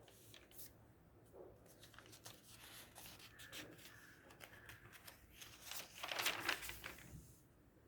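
Rustling and crinkling of something being handled, with scattered small clicks and a louder stretch of rustling about six seconds in.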